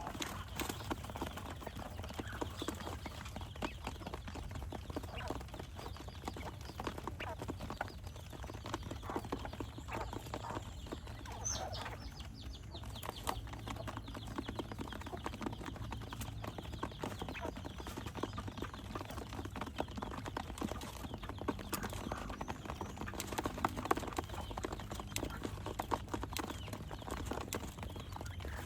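Quail pecking and scratching in their pen: a dense run of quick, light, irregular taps over a low steady hum, with one short high chirp about eleven and a half seconds in.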